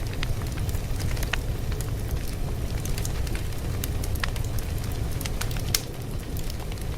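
Fire crackling: a steady low rumble under scattered sharp pops and snaps, with one louder pop near the end.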